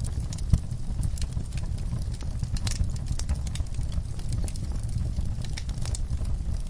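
Wood fire in a fireplace crackling, with frequent small sharp pops over a steady low roar of burning, and one louder pop about half a second in.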